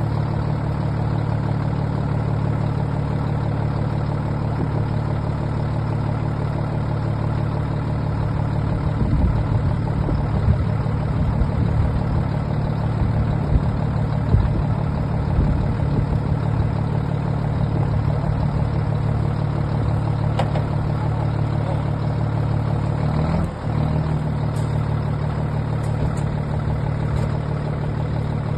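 Diesel engine of a 1985 Scania P92 concrete mixer truck idling steadily, with a few knocks in the middle and a brief dip and shift in the engine note about three-quarters of the way through.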